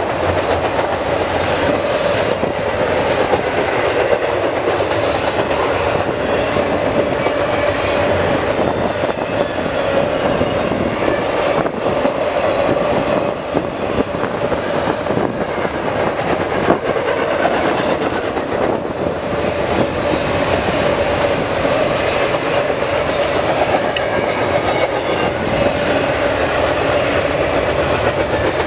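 Double-stack container cars of a CN intermodal freight train rolling past: the steady rumble and clatter of steel wheels on the rails, with a steady tone running under it.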